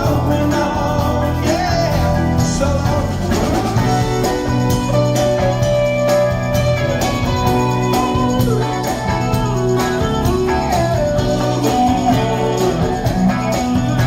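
A band playing: guitar over a steady bass line and drums, with no clear singing.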